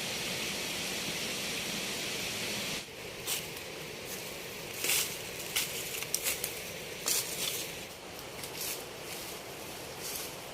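A steady hiss that cuts off suddenly about three seconds in, followed by scattered short rustles and crackles.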